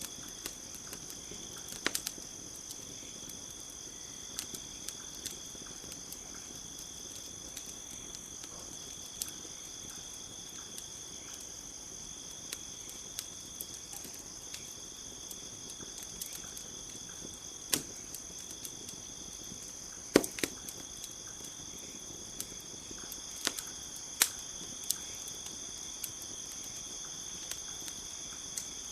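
Campfire crackling, with sharp pops every few seconds; the loudest come about two-thirds of the way through. Behind it, insects keep up a steady high chirring.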